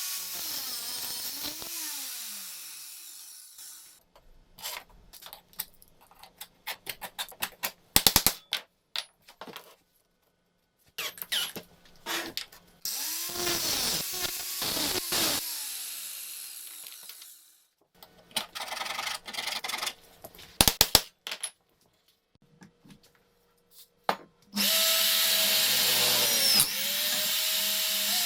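Power tool work on steel parts in short edited clips: a power tool's motor whirs, its pitch dipping and recovering under load, alternating with bursts of sharp clicks and knocks. Near the end the tool runs steadily and loudest.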